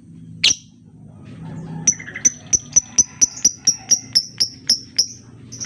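Lovebird calling: one sharp high shriek, then a fast, even run of about a dozen short, high chirps at roughly four a second, the rapid ticking 'ngetik' call.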